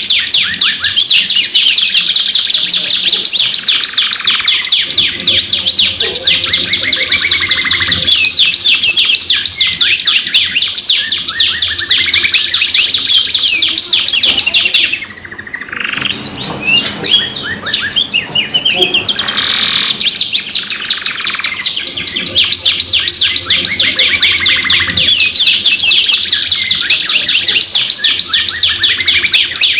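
Domestic canaries singing continuously in fast, rolling trills and chirps. The song dips briefly in level about fifteen seconds in, then carries on as before.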